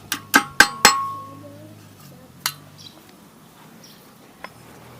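Steel parts of a rotary mower's knife assembly clinking together as they are handled: a quick run of four clinks in the first second, the last one ringing on, then another clink about two and a half seconds in and a faint one near the end.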